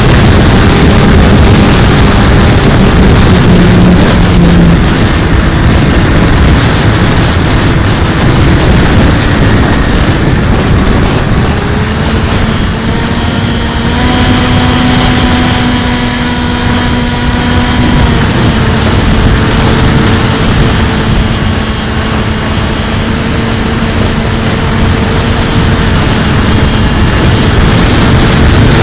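Electric motor and propeller of a Bixler 2 RC plane whining, its pitch stepping up and down with throttle changes, under heavy wind rumble on the onboard camera's microphone.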